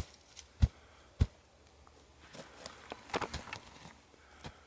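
Dull, hollow-sounding thumps on the ground over a buried wooden cover, three in the first second and a half. Then a stretch of rustling and scraping of dirt and wood debris.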